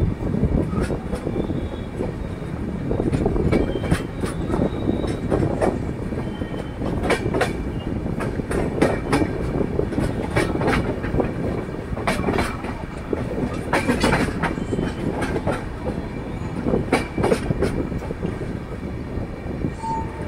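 Passenger train coaches running along the track: a steady rumble with frequent, irregular sharp clicks and clatter of the wheels over rail joints.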